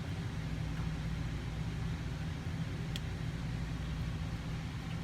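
Steady low machine hum, even throughout, with a single short click about three seconds in.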